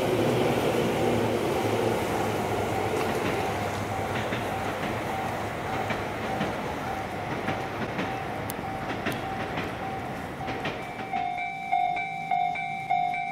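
Train running noise on the tracks, slowly fading, under a faint repeating bell tone. About eleven seconds in, the running noise drops away and the bell becomes loud and clear, striking about three times every two seconds, like a railway level-crossing warning bell.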